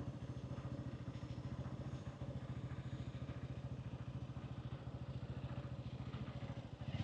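Hansom Bike Benet 125cc motorcycle engine idling with a steady, even low putter, its pitch holding level.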